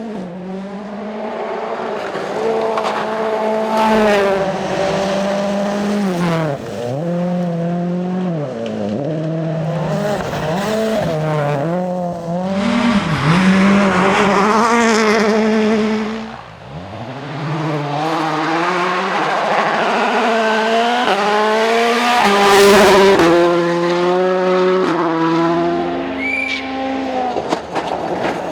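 Rally cars' turbocharged four-cylinder engines revving hard at full throttle, the pitch climbing and dropping sharply again and again through gear changes and lifts, as cars pass one after another with bursts of tyre and gravel noise.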